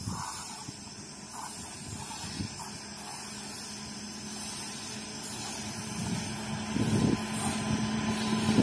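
Freight train hauled by twin electric locomotives approaching, its steady electric hum and the running noise of the train growing louder throughout. A few low buffeting thumps are heard, the strongest near the end.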